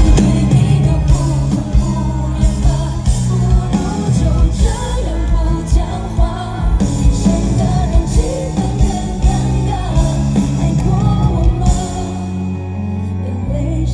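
Live pop ballad played by a band with drums, bass and guitar, and a woman singing the melody over a steady beat.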